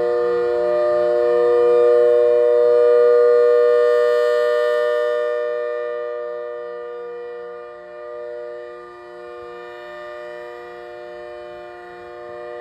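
ACA Hurricane siren with a square horn, sounding a steady, loud multi-tone chord at a constant pitch. It swells to its loudest about three seconds in, then fades gradually.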